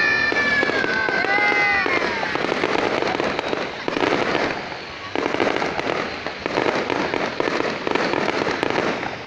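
Fireworks going off in a dense, continuous crackle, with louder surges several times. A few high gliding whistle-like tones sound over it in the first two seconds.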